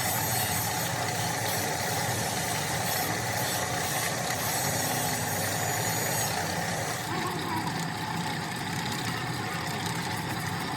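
Steady machine or engine noise, its tone changing about seven seconds in.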